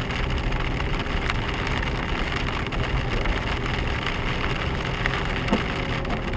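Hail pelting the roof and windscreen of a moving four-wheel-drive car, a dense patter of small sharp clicks over the car's steady low rumble.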